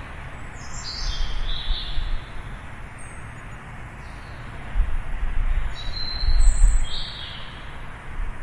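Birds chirping in two short bursts, about a second in and again around six seconds, each a few quick calls sliding down in pitch. Beneath them runs a steady hiss of distant traffic with low rumbles, which are loudest with the second burst.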